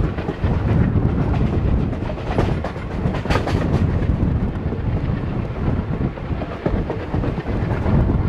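Passenger train running at speed, heard from aboard: steady rumble of the coaches with wheels clicking over the rail joints and wind on the microphone, and a burst of sharper clatter about two to three and a half seconds in.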